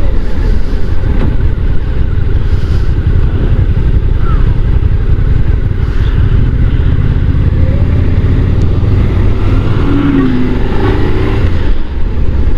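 Honda NC750 DCT motorcycle riding along, its parallel-twin engine running under wind rush on the rider's helmet microphone, a steady loud low rumble.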